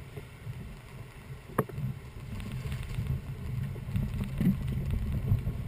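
Uneven low rumble of wind and river noise on the microphone aboard a boat, with one sharp knock about a second and a half in.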